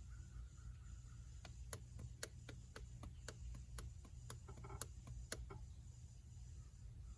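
Faint, irregular light clicks and ticks, about a dozen over a few seconds, over a low steady hum.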